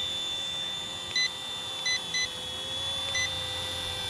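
Steady high electric whine of a small RC helicopter's motor and rotor in flight, with four short electronic beeps from the radio transmitter: one a little past a second in, a quick pair around two seconds, and one just past three seconds.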